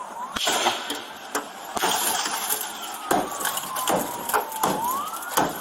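Repeated sharp blows against a 2015 Toyota Camry's window glass as an officer tries to break it, about half a dozen strikes spread out over several seconds.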